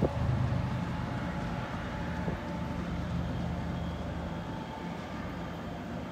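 MBTA commuter rail train pulling away from the platform: the diesel locomotive's steady engine drone and the rolling of the cars, slowly fading as the train recedes.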